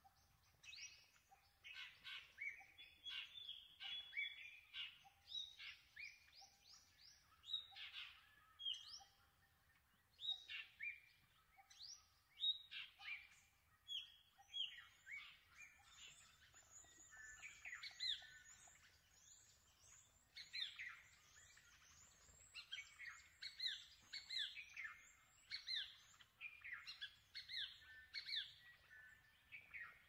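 Soft wild birdsong: several birds chirping and giving short falling whistles throughout, with a faint low note repeating a little over once a second through the first half.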